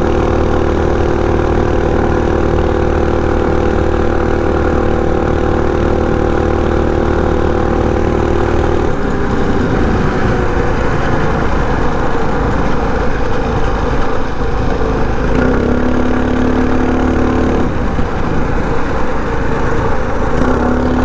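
Predator 224 single-cylinder four-stroke minibike engine running under load up a hill. Its note is steady at first, turns ragged about halfway through, settles onto a lower steady pitch, then shifts again near the end.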